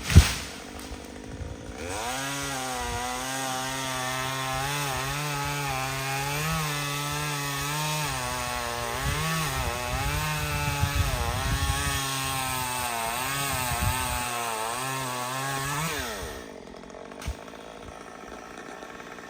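Chainsaw at full throttle cutting wood, its engine pitch dipping and recovering as the chain loads up in the cut, then released about three-quarters of the way through so the engine falls back to a quieter idle. A sharp knock right at the start.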